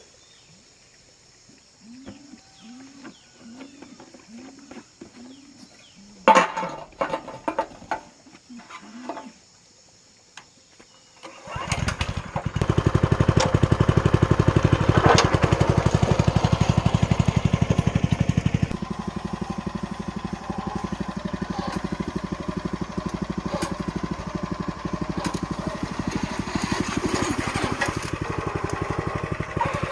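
A small engine starts about twelve seconds in and keeps running steadily with a fast, even beat, dropping somewhat in level a few seconds later. Before it starts there are only faint short sounds and a single sharp knock.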